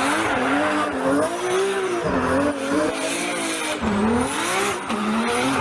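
Toy police car playing its electronic engine sound effect: a wavering, rising and falling motor-like tone over a hiss.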